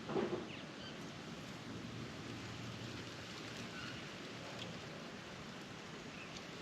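Steady outdoor background hiss with a few faint, short, high chirps. A brief knock or rustle comes just after the start and is the loudest thing.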